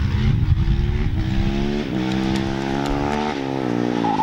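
Husqvarna FS 450 supermoto's 450 cc single-cylinder engine accelerating, its pitch climbing with gear shifts about two seconds in and again past three seconds.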